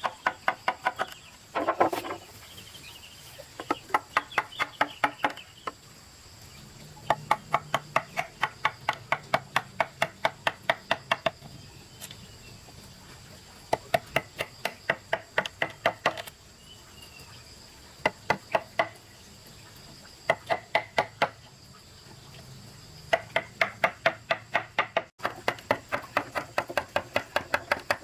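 Rapid, repeated chopping strikes, about five a second, in bursts of a few seconds separated by short pauses.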